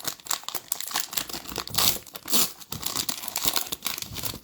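Foil wrapper of a Select basketball card pack being torn open and crinkled by hand, a dense, irregular crackling that stops abruptly at the end.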